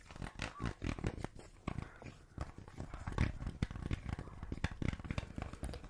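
A small wand handled close to a microphone: many soft, irregular taps and scratches in quick succession.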